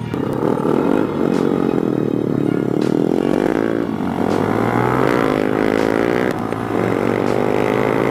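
Small motorcycle engine running under way, its pitch rising and falling repeatedly as it revs up and eases off through the gears.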